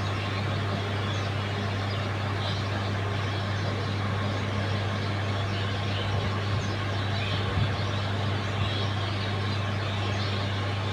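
Steady running rumble of a train with a constant low hum, and a few faint knocks about six to eight seconds in.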